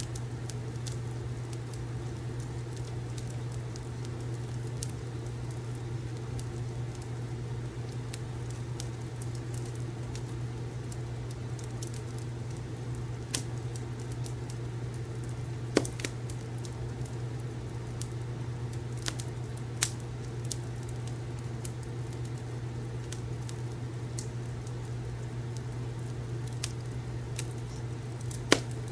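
Wood fire crackling, with irregular small crackles over a steady low hum. A few louder sharp pops stand out, the sharpest near the end.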